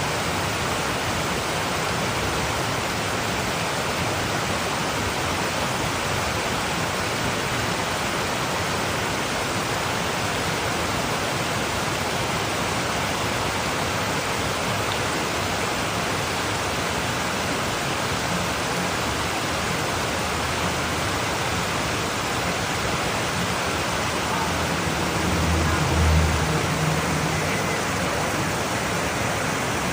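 Steady, even rush of flowing water, with a brief low rumble about 25 seconds in.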